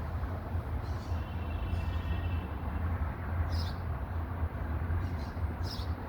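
Steady low outdoor rumble with a few short, high chirps scattered through it.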